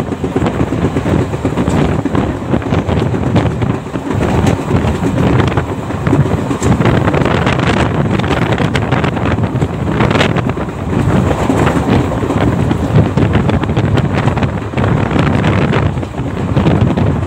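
Passenger train running at speed, heard from on board: wind buffeting the microphone over the steady rumble of the coach's wheels on the rails, with a few sharp clicks.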